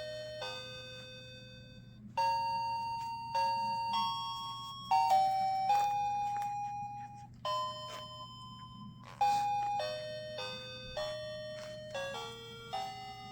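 A slow melody of chime notes, one note at a time, each struck sharply and fading away, over a faint steady low hum.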